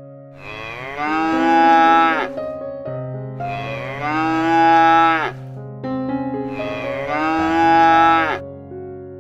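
A cow mooing three times, each long call dropping in pitch as it ends.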